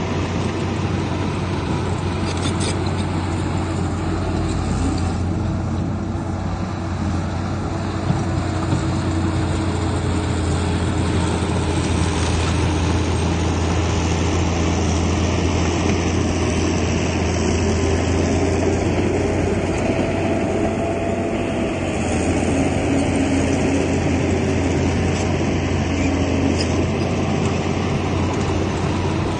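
Heavy diesel earthmoving machinery running steadily, with a constant deep engine drone and clatter, where a Komatsu bulldozer pushes soil and dump trucks dump their loads.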